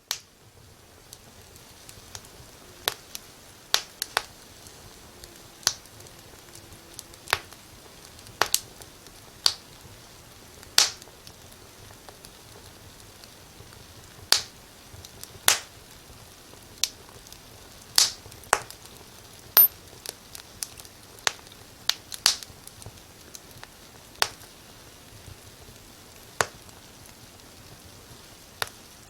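Fire crackling in a fireplace: irregular sharp pops and snaps, roughly one a second, over a soft steady hiss.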